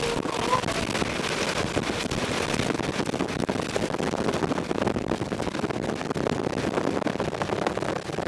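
Steady noise of a moving vehicle, thick with dense fine crackling.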